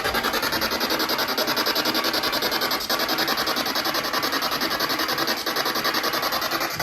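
Spirit box scanning through radio stations, giving a steady hiss of static chopped into a fast, even pulse several times a second.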